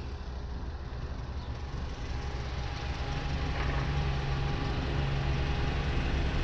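A car engine running at low revs and growing steadily louder as the vehicle draws near.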